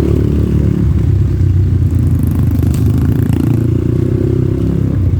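Off-road motorcycle engine running under way, its note rising and falling a little with the throttle, with some rattle from the bike over rough ground.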